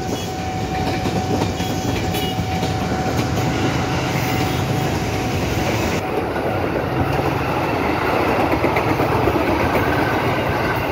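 KRL electric commuter trains passing close by: a steady rumble of steel wheels on the rails with clickety-clack over the rail joints.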